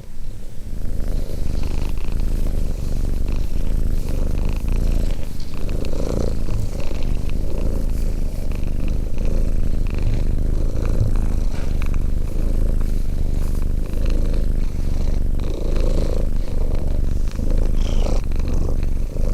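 A cat purring close up: a continuous low rumble.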